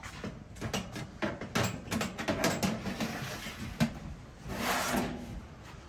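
Scattered light knocks and clatter, with a brief rushing noise a little before the end.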